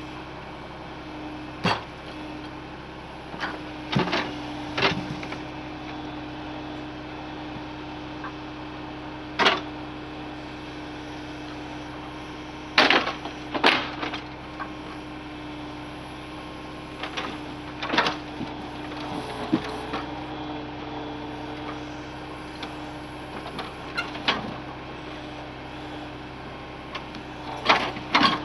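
Ural truck's engine running at a steady pitch while logs are handled, with a dozen or so sharp wooden knocks and clunks scattered throughout; the engine pitch rises briefly about two-thirds of the way through.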